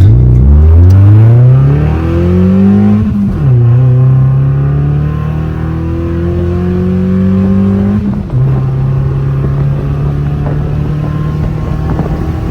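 Maruti Suzuki Baleno engine, ECU-remapped to stage 2, accelerating hard from a standstill through the gears in a 0–100 km/h run. The revs climb, fall at an upshift about three seconds in, climb again, fall at a second upshift about eight seconds in, then keep pulling.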